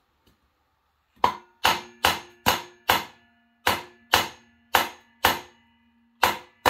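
Hammer blows on the metal of a seized Honda engine being taken apart: about eleven sharp strikes in quick, uneven succession, each leaving a metallic ringing note.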